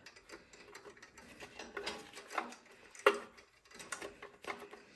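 Small clicks and handling noises of a rubber fuel line being worked back onto the fuel fitting of a small engine's carburetor, with one sharper click about three seconds in.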